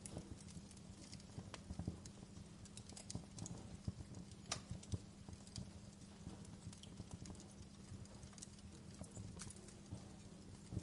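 Wood fire crackling in a fireplace: irregular sharp pops and clicks, one louder snap about halfway through, over a faint steady low hum.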